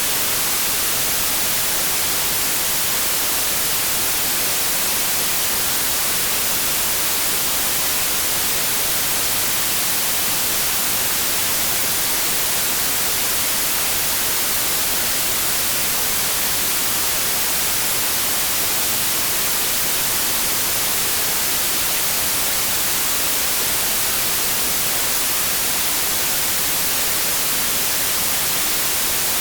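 Steady synthetic white noise: an even, unchanging hiss with no breaks or events.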